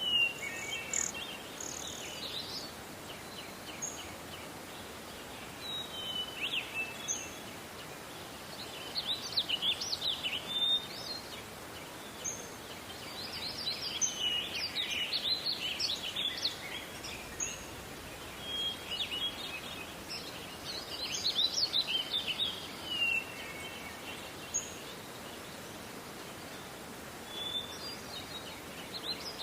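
Songbirds singing in a forest over a steady background hiss, in repeated high phrases every few seconds, with a quieter gap late on before the song resumes.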